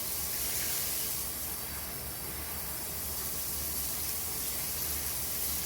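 Shower spray running steadily over a parrot: an even, unbroken hiss of falling water.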